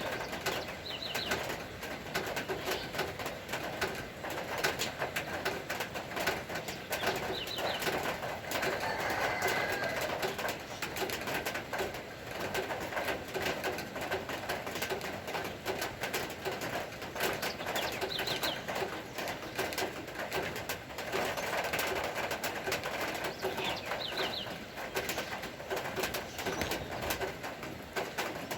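Steady rain pattering, a dense spread of fine drips. Throughout it a bird keeps cooing low, and a few short high chirps come now and then.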